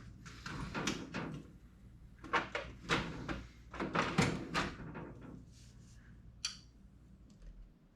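A run of short knocks and scrapes of metal motorcycle exhaust parts and hardware being handled and fitted, busiest in the first five seconds and then sparser. Under them runs a faint low hum that stops near the end.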